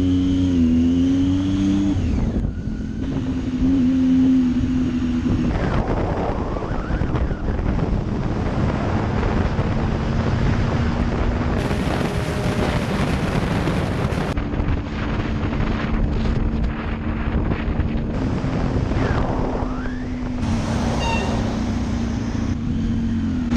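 Triumph Tiger 800 XC motorcycle's three-cylinder engine running under way, its note shifting up and down with the throttle. Heavy wind noise buffets the microphone. Abrupt changes in the sound mark several joined riding clips.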